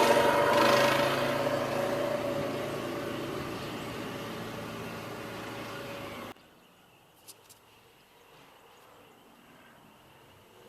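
Mini bike's small single-cylinder four-stroke engine running at a steady speed and growing steadily fainter, then cut off suddenly about six seconds in, leaving only faint background with a couple of small clicks.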